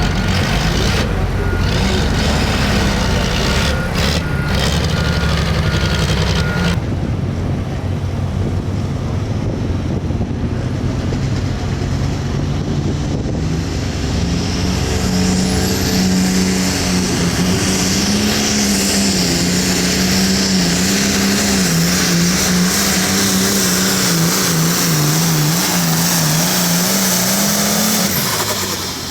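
Hot-farm-class diesel pulling tractor running flat out under load, pulling a weight sled. The engine holds high revs with its pitch wavering as it works, then drops off shortly before the end.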